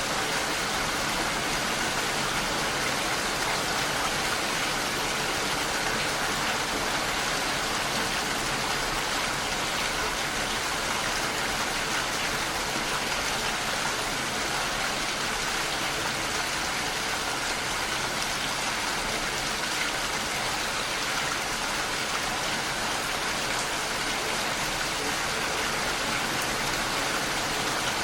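Heavy rain falling steadily on a window, a continuous even hiss and patter that holds constant throughout.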